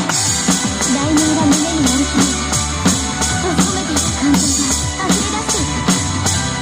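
Drum kit played along to a pop song track with a singing voice, the drums keeping a steady beat.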